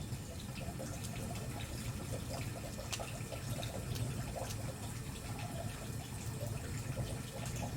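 Wood campfire burning, with scattered sharp crackles and pops over a steady low rush of flames.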